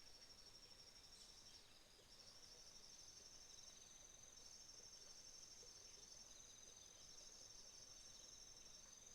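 Crickets chirping in a steady, faint, high-pitched pulsed trill that breaks off briefly a few times, in an autumn morning chorus.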